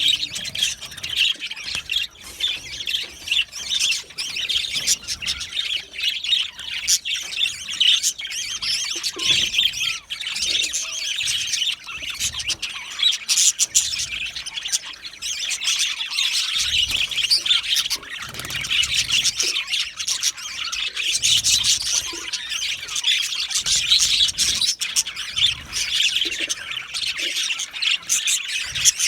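A flock of budgerigars chirping and chattering continuously, with squawks mixed in.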